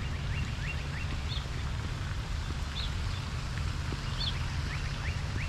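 Birds calling outdoors: a short call repeated about every second and a half, and quick runs of rising chirps near the start and again near the end, over a steady low rumble.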